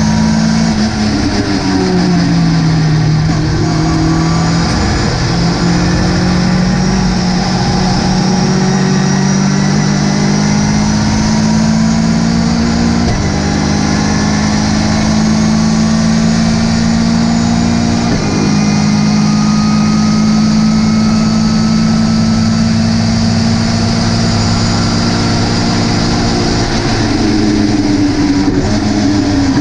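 Ginetta GT5 race car engine running hard under load, its pitch slowly climbing, with two upshifts about halfway through where the revs drop sharply. Near the start and again near the end the revs fall and waver as the car slows and shifts down.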